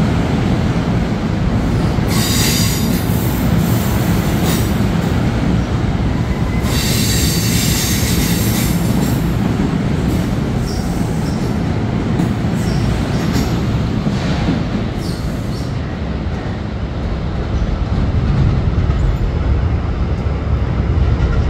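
NJ Transit MultiLevel passenger coaches rolling past and pulling away, a steady loud rumble of wheels on rail. High wheel squeal breaks in about two seconds in and again from about seven to nine seconds.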